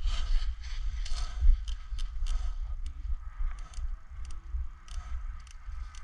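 Scattered sharp clicks of airsoft guns firing, irregular and a few per second at most, over a steady low rumble on the microphone.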